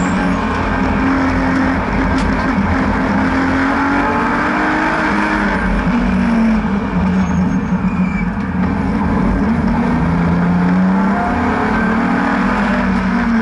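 BMW N52B30 3.0-litre naturally aspirated inline-six running hard on track. Its pitch climbs and drops several times as the car accelerates and lifts, with a marked drop a little under halfway through, over steady wind and tyre noise.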